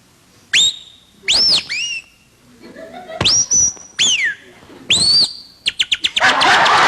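A man whistling bird calls: six sharp whistles that sweep up and down in pitch, then a quick run of short chirps. An audience starts to applaud and laugh near the end.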